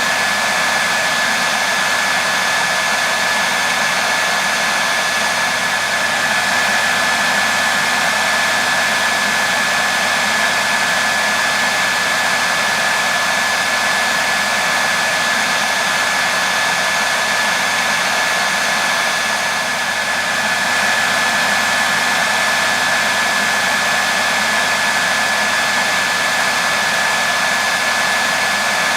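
Hair dryer running continuously: a steady rush of airflow with a constant high whine from its motor and fan.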